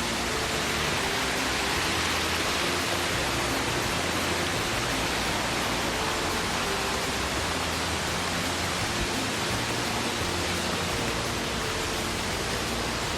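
Waterfall rushing as a steady, unbroken roar of falling water.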